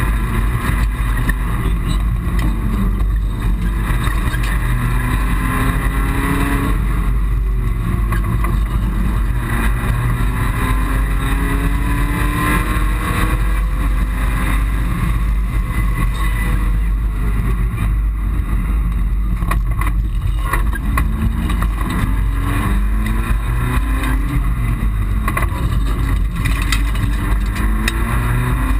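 Mitsubishi Colt rally car's engine under hard acceleration, heard from inside the cabin: the revs climb and drop back again and again as it shifts up through the gears, over a constant loud rumble of road and wind noise.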